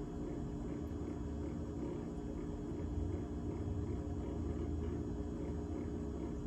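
GE GTH18XCTZRBB refrigerator running: a steady hum made of several held tones over a low rumble.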